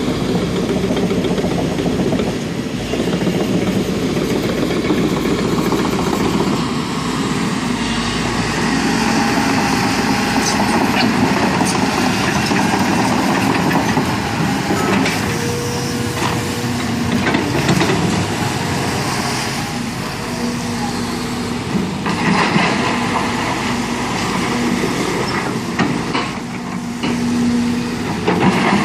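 Diesel engine of a construction machine running steadily.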